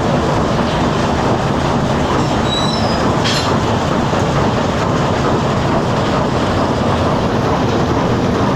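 The TSS Earnslaw's twin triple-expansion steam engines running steadily, a loud continuous mechanical noise, with a brief sharp clank and a few short squeaks about three seconds in.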